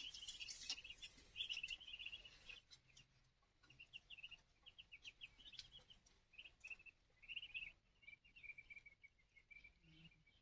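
Birds chirping faintly: many short, high notes repeating in quick runs.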